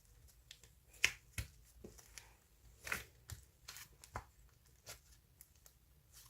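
Faint, irregular clicks and rustles of something being handled, with a few louder taps about a second in, near three seconds and around four seconds.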